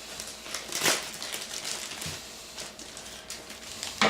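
Packaging being handled in a cardboard box: crinkling and small clicks, with a louder rustle about a second in and a dull knock near the middle.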